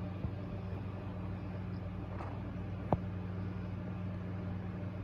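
A steady low hum, with a light click just after the start and a sharper click about three seconds in.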